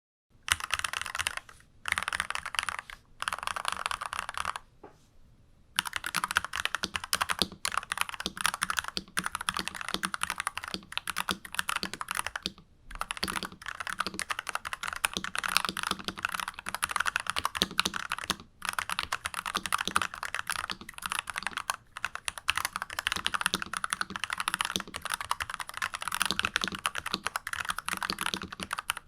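Typing on a stock NuPhy Halo 96 mechanical keyboard with unlubed Alpaca linear switches: keystrokes clacking in three short bursts, a pause of about a second, then steady fast typing.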